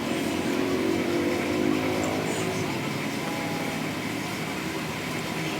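An engine running, its pitch easing slowly down, over a steady noisy background.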